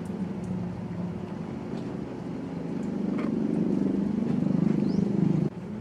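A low, steady motor-like drone that grows louder over a couple of seconds and then cuts off suddenly near the end.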